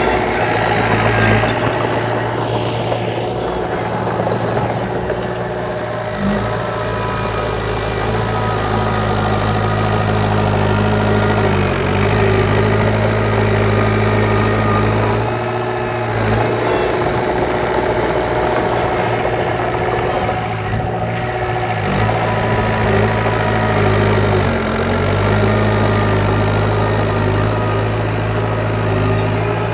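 Heavy earthmoving machine's diesel engine running steadily, its speed shifting briefly several times.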